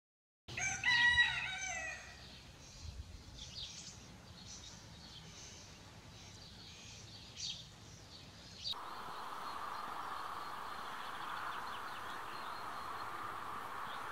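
Outdoor birdsong: one loud call with a wavering pitch starts about half a second in and lasts over a second, followed by faint scattered chirps. After a sudden cut past the middle, a steady even background hiss takes over.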